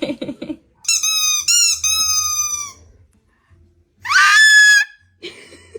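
Parrot giving high-pitched squeaky calls: a held call in three short parts, then about a second later a call that rises sharply and holds.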